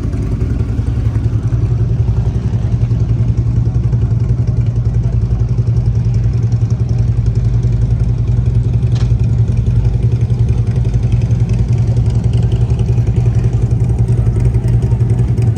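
Motorcycle engine running steadily at an even speed, a constant low drone with a fast flutter.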